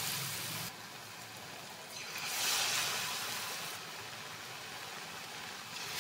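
Batter-coated potato wedges deep-frying in hot oil in a kadhai: a steady sizzle that swells about two seconds in as another wedge goes into the oil, then slowly settles.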